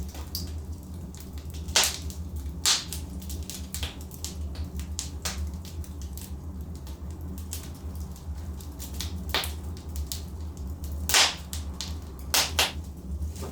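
Wood logs burning in a fireplace: a constant soft crackle with scattered sharp pops, the loudest about 11 seconds in, over a steady low rumble.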